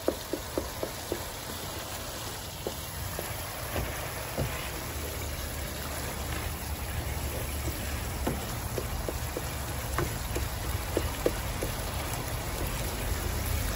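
Tomato-and-spice masala frying in ghee in a nonstick pan: a steady sizzle over a low rumble. A wooden spatula taps and scrapes the pan in short runs near the start and again about eight to eleven seconds in.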